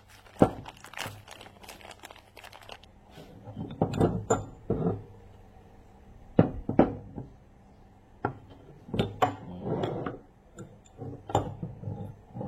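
Metal steering-rack parts and tools being handled: irregular sharp clinks and thunks of metal set down and knocked together, several in quick pairs.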